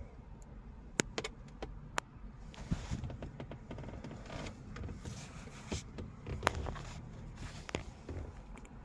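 Scattered light clicks and knocks with faint rustling: someone handling parts of a car.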